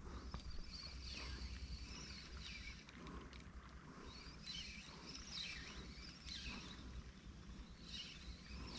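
Birds calling in faint whistled phrases that swoop up and down in pitch, several times over, above a low steady rumble of wind on the microphone.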